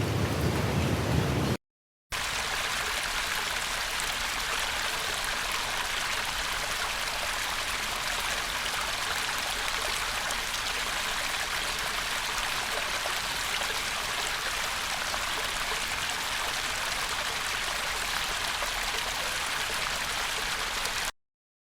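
Steady rush of a flowing stream, an even hiss of water. It begins after a brief silence about two seconds in and stops abruptly just before the end. Before the silence, the opening moments hold the end of a deeper, rumbling water track.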